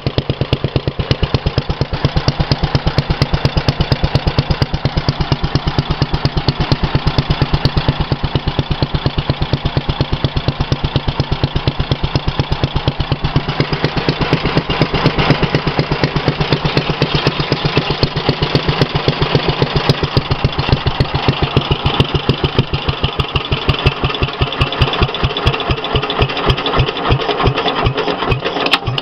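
Petter A1 single-cylinder stationary engine running, with a rapid, even beat of about seven firing pulses a second. It has just been revived after standing unused for many years and is not yet running smoothly for want of a little tuning. Over the last few seconds the beats slow and become uneven.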